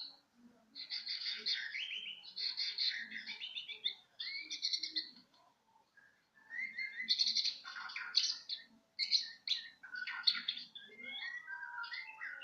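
Young caged songbird, the kind that Indonesian bird keepers call a 'bahorok', singing a rapid, varied chatter of chirps and short rising notes in bursts, with a brief pause before the middle.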